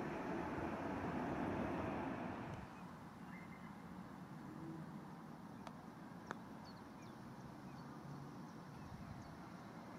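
A passing train's rolling noise, which falls away about two and a half seconds in as it clears, leaving a quieter steady background with one sharp click about six seconds in.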